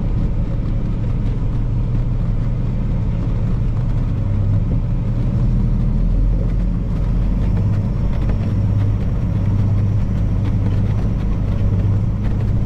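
Semi truck's diesel engine running steadily as the truck drives slowly, a constant low drone.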